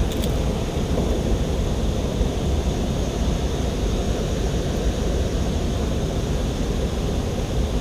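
Steady low rush of creek water pouring over a small waterfall, an unbroken rumbling wash.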